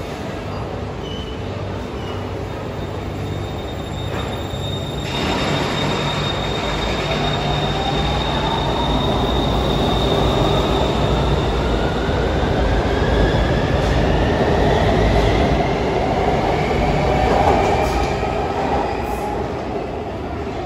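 BTS Skytrain electric train running along an elevated station platform, getting louder about five seconds in. Its motor whine climbs steadily in pitch as it picks up speed, and a thin high steady tone sits over it for several seconds.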